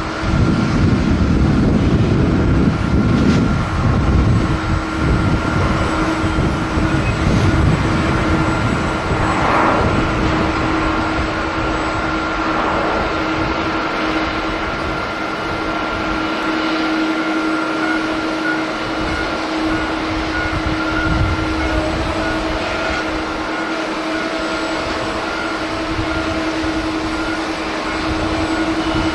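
Jet airliner engines running, a steady whine held over a broad rumble. The rumble is heaviest in the first few seconds.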